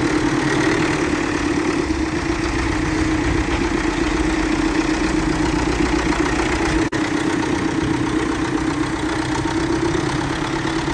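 Diesel tractor engine idling steadily, with a momentary break about seven seconds in.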